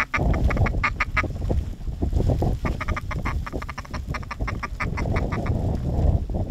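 Duck quacking in quick runs of short calls, about eight a second, in two runs with a pause around two seconds in, over a steady wind rumble.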